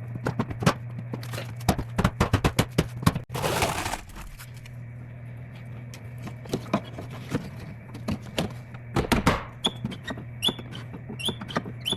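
Interior door trim panel being pressed and knocked onto a car door, its clips snapping in: a quick run of sharp knocks, a short scraping rustle, then scattered lighter clicks and a few short squeaks near the end.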